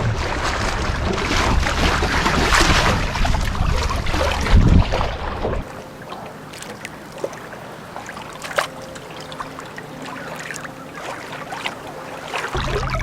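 Wind buffeting the microphone over water lapping, which drops away suddenly about six seconds in, leaving quieter water sounds with scattered small knocks and splashes; the wind rumble returns near the end.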